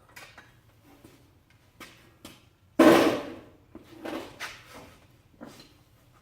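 Clatter and knocks of hard parts being handled, with one loud clank about three seconds in and a few smaller knocks after it.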